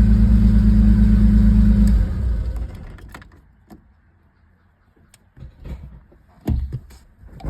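1988 car's engine idling with an even low pulsing beat, now running after a no-crank no-start fixed with a new starter and relay; it is switched off about two seconds in and runs down. Afterwards a few scattered knocks and thumps, the loudest a thump near the end.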